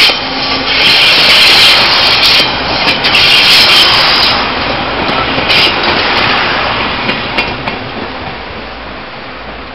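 TRA DR1000 diesel railcar passing close by at speed, its wheels rumbling and clattering over the rails, with two stretches of high squealing in the first four seconds. The noise then fades steadily as the train runs away round the curve.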